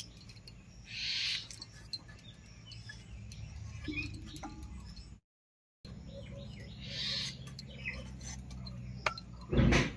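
A bird gives a short call twice, about six seconds apart, over a faint steady low hum. A dull thump near the end is the loudest sound.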